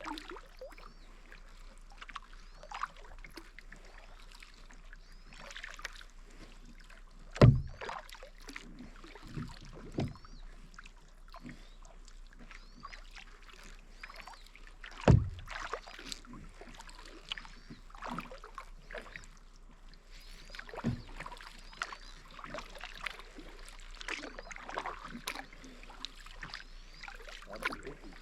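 Kayak paddling on calm water: irregular small splashes and drips from the paddle blades, with two loud thumps, about 7.5 and 15 seconds in.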